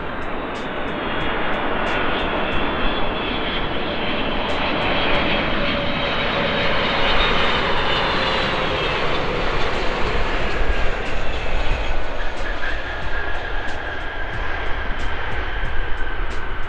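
Boeing 747 Dreamlifter's jet engines as it comes in to land: a loud rushing roar that builds toward the middle, with a whine that falls in pitch as the aircraft goes by.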